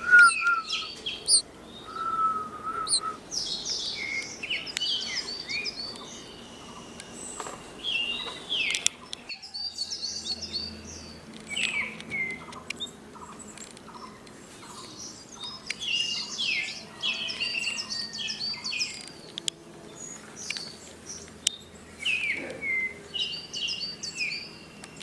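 Small birds chirping in clusters of short, high calls every few seconds, with quieter gaps between.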